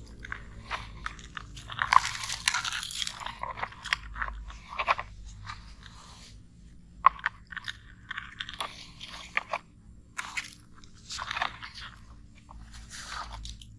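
Sand crunching and scraping as a toy excavator's bucket digs it and drops it into a toy dump truck, in irregular bursts with small clicks.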